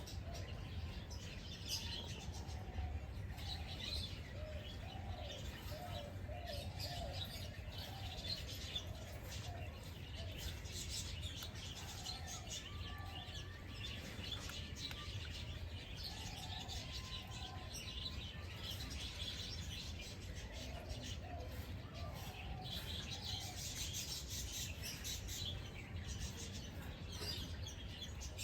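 Several birds chirping and tweeting continuously, some high and quick and some lower and warbling, over a steady low rumble.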